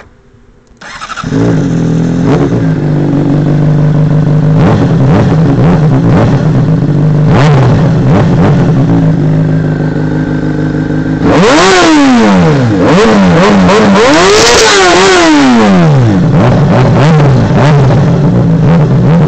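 Honda CBR sportbike's inline-four engine through a Hyperflo exhaust with the sound cores removed. It starts about a second in and idles, then is revved a few times in the middle, the pitch rising and falling, before settling back to idle.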